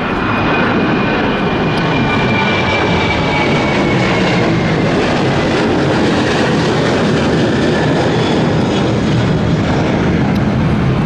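Jet airliner passing close, its engines running in a steady loud roar with a high whine that slowly falls in pitch.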